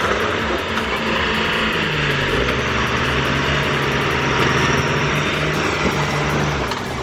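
A machine's engine running steadily under a dense mechanical noise, its pitch holding level with a slight dip about two seconds in.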